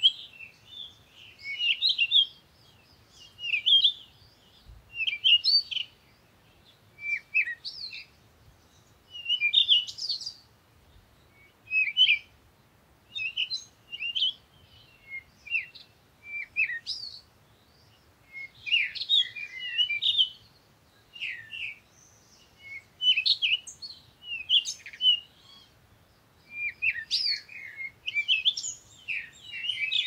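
Small birds chirping in short high clusters of notes, one burst every second or two.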